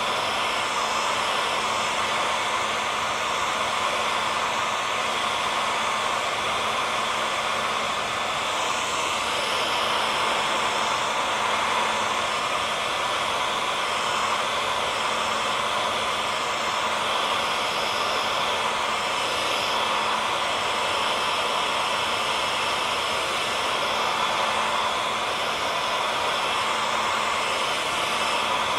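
Handheld hair dryer running steadily: a constant airflow hiss with a faint motor hum, used as white noise.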